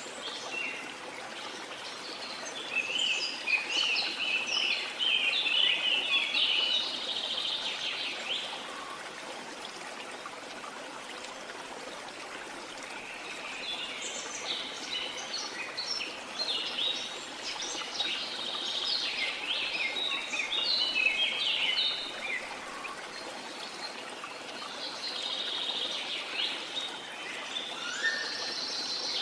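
Birds singing in bursts of rapid, high chirping phrases that come and go in three spells, over a steady rush of running water.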